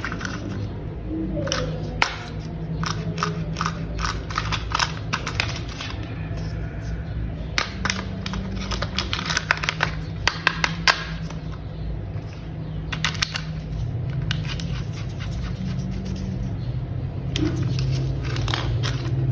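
Hard plastic toy parts clicking and snapping as they are fitted together, in clusters of sharp clicks, over low steady background music.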